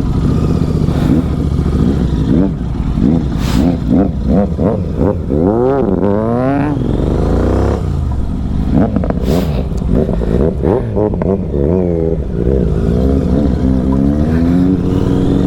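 Several superbike engines revving with repeated throttle blips that overlap, their pitch rising and falling. About six seconds in, one long rev climbs and then drops away.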